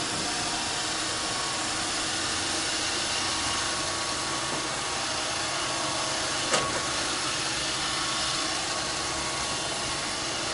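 Roomba 531 robot vacuum running: a steady whir and hiss of its motor, with one sharp knock about six and a half seconds in.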